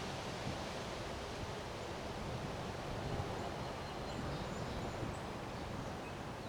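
Strong wind blowing steadily, rustling through leaves, with a low rumble of wind buffeting the microphone.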